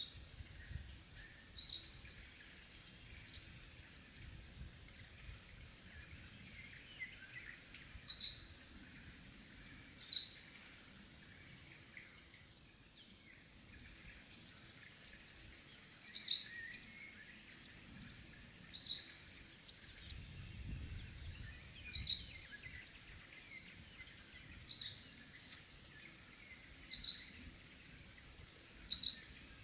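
Forest ambience with a bird giving short, sharp high-pitched calls, repeated about ten times a few seconds apart, over a faint steady high drone.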